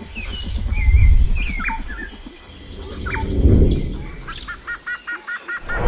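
Songbirds chirping and trilling, with a quick repeated trill near the end. Under them, a deep rumble swells up and fades away about every two to three seconds; it is the loudest sound.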